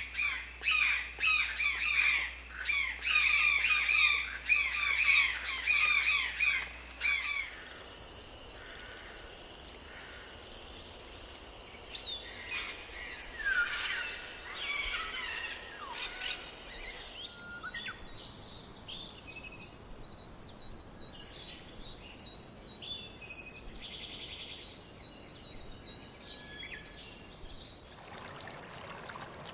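Wild birds calling: a loud run of rapid, repeated calls for about the first seven seconds, then, after an abrupt change, softer mixed chirps and calls from several birds.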